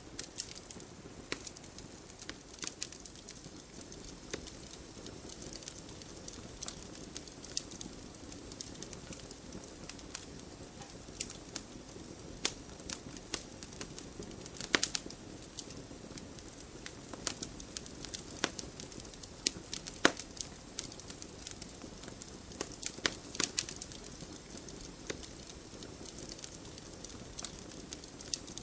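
Wood fire burning in a fireplace: a steady low rush of flame with irregular sharp crackles and pops from the burning logs, one pop louder than the rest about two-thirds of the way through.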